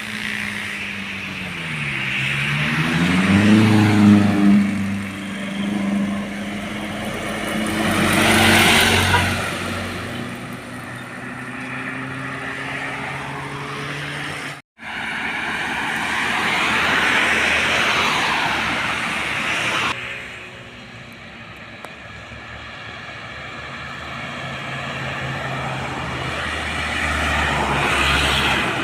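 Heavy trucks passing along a road, engine and tyre noise swelling and fading as each goes by. In the first few seconds one truck's engine drops in pitch and then climbs again as it changes gear and pulls away. There is a brief dropout near the middle.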